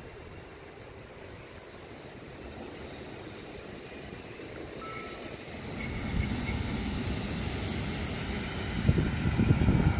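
Suburban electric multiple unit approaching and passing close by: a high, steady metallic squeal from the wheels on the rails grows louder from about two seconds in, joined over the second half by the rising rumble of the wheels and a few heavier knocks as the front cars pass.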